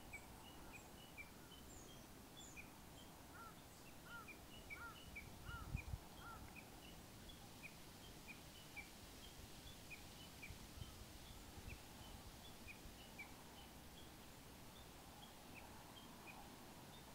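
Wild birds singing faintly in hill woodland: a steady stream of short, high chirps repeated throughout, with a run of five lower, down-slurred notes a few seconds in. A low thump about six seconds in, over a steady low rumble.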